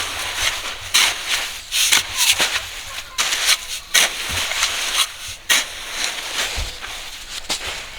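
A shovel scraping and crunching through a gravel-and-concrete mix in a run of irregular sharp scoops, about two a second.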